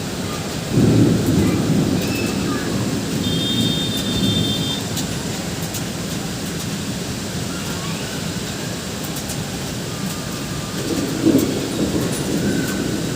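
Heavy rain falling steadily, with thunder rumbling twice: a loud peal about a second in that rolls on for a few seconds, and a shorter rumble near the end.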